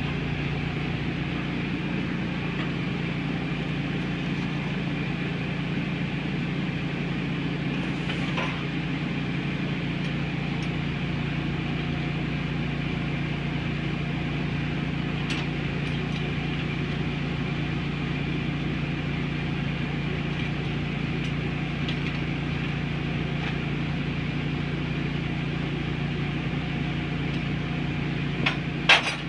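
125-pound Bull power hammer running idle between blows: a steady motor hum with a low even tone. A few faint clinks sound now and then, and a couple of sharp knocks come near the end.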